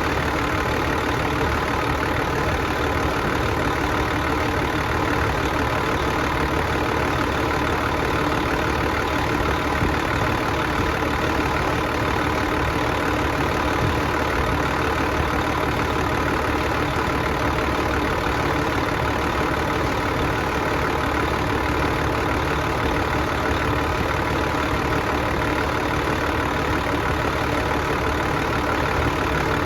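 Engine idling steadily, with an even, unchanging running sound, while it is being deliberately run to destruction.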